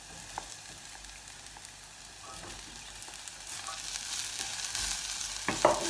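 Carrot sticks and shallots sizzling in hot oil in a stainless steel saucepan while a wooden spoon stirs them. The frying hiss grows louder over the last couple of seconds, with a couple of sharp knocks near the end.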